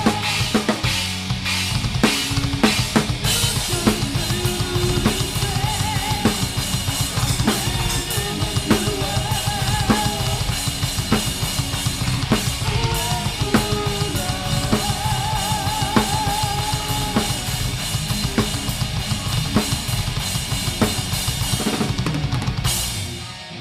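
Live heavy metal band playing, with the Pearl Masters drum kit close and loud: rapid bass drum strokes and sharp snare hits under electric guitars carrying a wavering melody line. The band stops just before the end.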